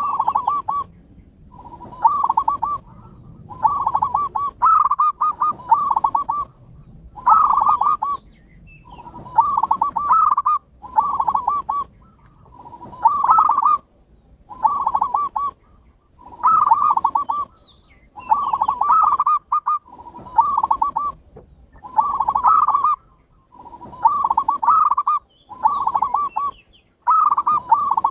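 Zebra doves (perkutut) cooing: one short, rapid coo phrase after another, each under a second long, with brief pauses between.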